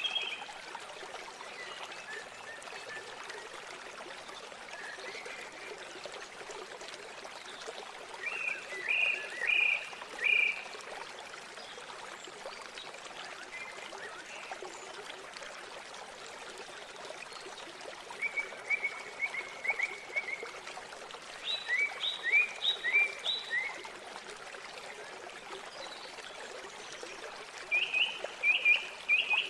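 Steady rush of flowing river water, with a bird calling in short runs of quick, sharp repeated notes several times over it.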